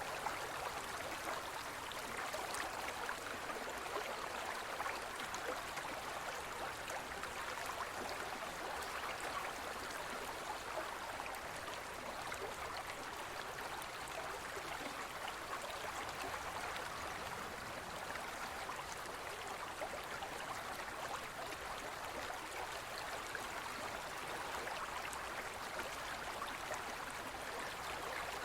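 Forest stream flowing steadily, a continuous rush of water flecked with small splashes.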